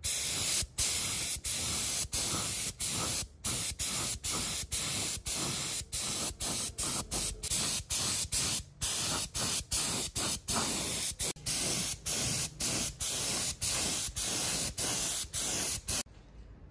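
Pressurised spray hissing in rapid short bursts, about two a second, then cutting off suddenly near the end.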